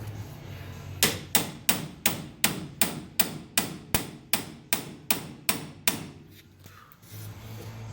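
A hammer striking the front suspension of a 1978 Chevy C10 in a quick, even run of about fourteen blows, roughly three a second, which then stop, while the coil spring is being worked out of its seat.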